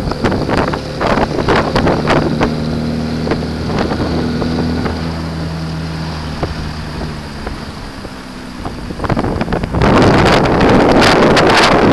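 1933 Singer Le Mans open sports car's engine running steadily on the move, with scattered clicks and knocks. From about ten seconds in, loud wind buffeting on the microphone drowns it out.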